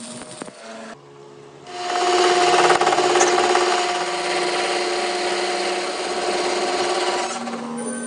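A power tool working metal: it starts about two seconds in with a steady hum under a rough, hissing noise and stops near the end.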